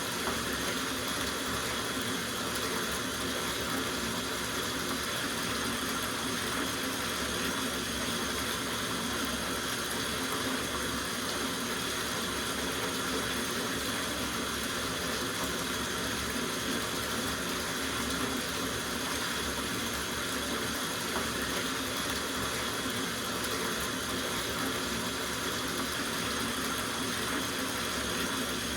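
Water running steadily from a tap into a soak bathtub. It makes an even rush with no breaks.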